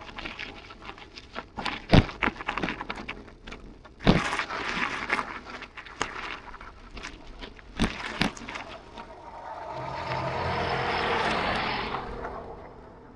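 A motor vehicle passes, its road and engine noise swelling and fading over about three seconds near the end. Scattered knocks and rattles come before it.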